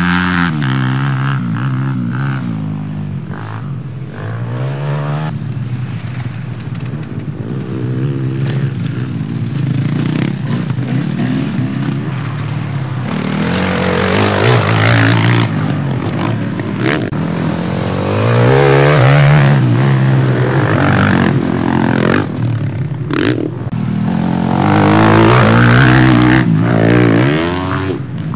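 Motocross bikes racing around the track, engines revving up and falling back again and again as riders accelerate and shift, loudest as bikes pass close about two-thirds of the way in and near the end.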